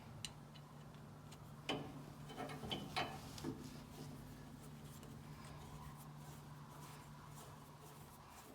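Light metallic clicks and clinks of small parts being handled, a sawmill blade-guide bearing and its washers being fitted, in a cluster of several clicks about two to three seconds in, over a faint steady low hum.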